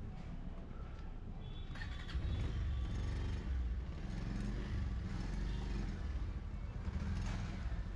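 Motorcycle engine running as the bike pulls away, louder from about two seconds in.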